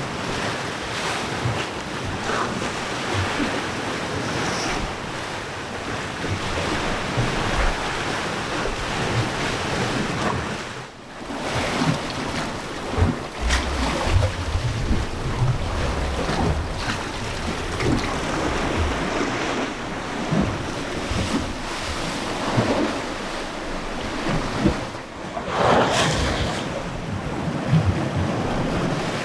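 Sea surf washing against the rocks below, a steady rushing with swells, and wind buffeting the microphone in gusts.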